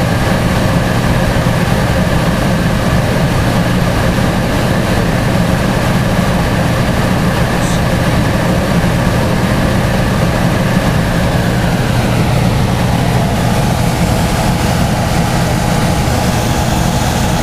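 Central gas furnace running: a steady, even mechanical hum of its blower and burner, with a faint higher whine that fades out about two-thirds of the way through.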